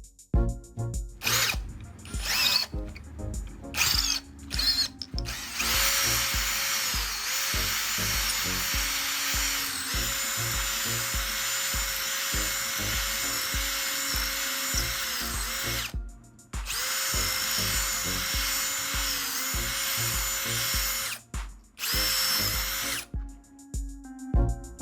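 Power drill running in two long stretches with a short break between, its pitch dipping briefly now and then as it is loaded, then a short final burst, over background music with a steady beat.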